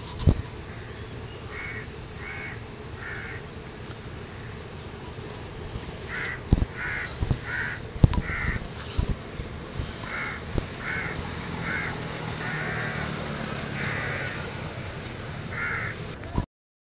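A bird giving short, harsh calls in repeated series of three to five, about two calls a second, with a few dull knocks. The sound cuts off suddenly near the end.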